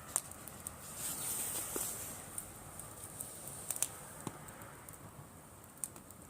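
Driftwood campfire crackling, with sharp pops scattered through it: a quick pair near four seconds in and one more near the end. A faint high hiss runs under it in the first half.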